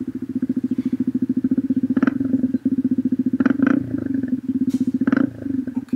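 Small motorcycle engine idling with an even, rapid exhaust pulse, blipped briefly by the throttle a few times.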